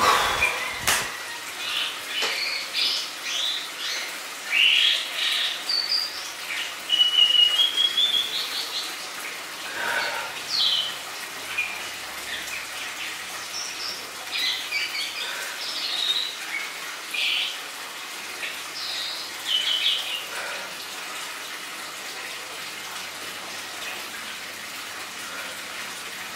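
Birds chirping and whistling: short, high twittering notes and brief rising and falling whistles, coming and going throughout, over a steady background hiss.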